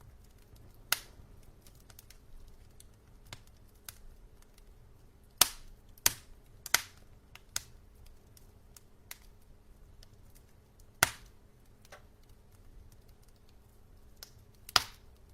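Burning logs in a fireplace crackling, with sharp, irregular pops: a cluster of loud pops a little past the middle, one more about two-thirds through and one near the end. Fainter crackles lie between them over the quiet sound of the burning.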